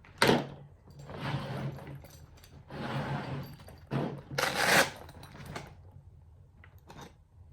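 Hand tools being rummaged and pulled out of a soft tool bag: a sharp clack just after the start, then several bursts of rustling and handling noise, the loudest about four and a half seconds in, and a small click near the end.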